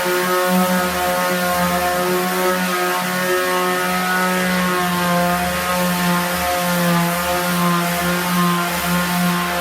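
Electric power sander running steadily, its motor hum wavering slightly in pitch now and then.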